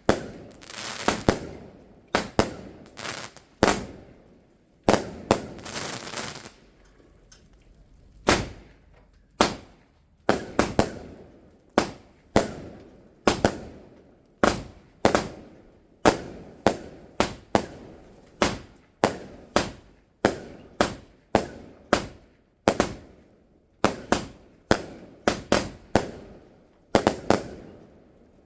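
Fireworks going off in a long run of sharp bangs, about one to two a second, each fading out quickly, with a longer hissing crackle about five seconds in.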